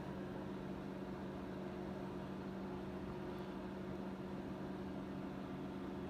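Steady electrical hum with a faint hiss beneath it, unchanging throughout.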